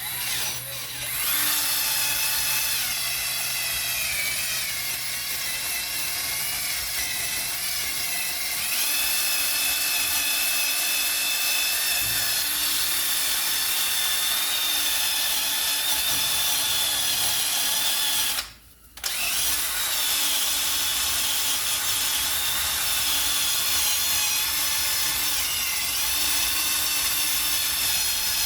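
Small wire wheel spun by a power tool, running steadily to clean rust and scale off the wheel hub face of a Mercedes ML350 so the new brake rotor sits flat. The motor stops briefly about two-thirds of the way through, then starts again.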